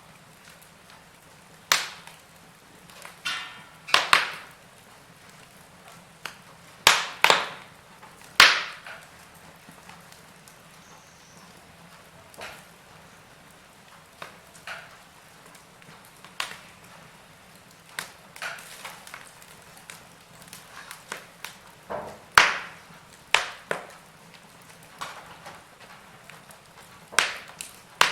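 Fire crackling in a fireplace: irregular sharp pops and snaps at uneven intervals over a faint, steady hiss.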